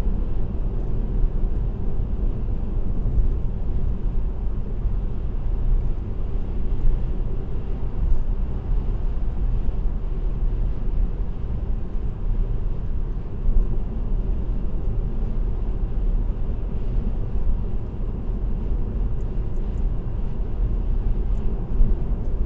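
Steady road noise of a car cruising at highway speed: a low, even rumble of tyres and wind, heard through a dashcam inside the cabin.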